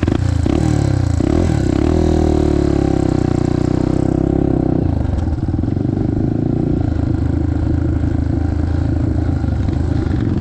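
Yamaha TT-R230 dirt bike's single-cylinder four-stroke engine under way, revving up and down through the gears for the first five seconds or so, then running at a steadier speed.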